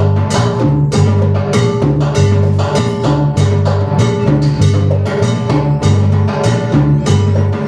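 Live band music: a repeating electric bass line under drums and percussion keeping a steady dance beat.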